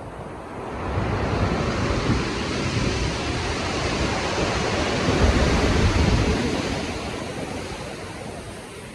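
Stormy sea: a large ocean wave building, crashing with a deep rumble and washing out, under wind.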